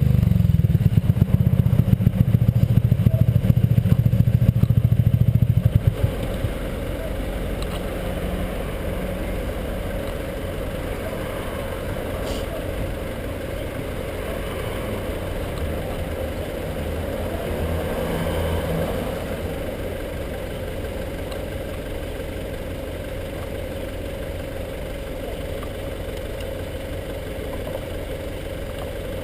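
Honda PCX scooter's single-cylinder engine running through its modified exhaust, loud and pulsing at first, then dropping suddenly about six seconds in to a quieter steady drone, as when the throttle is eased off, with a brief swell later on.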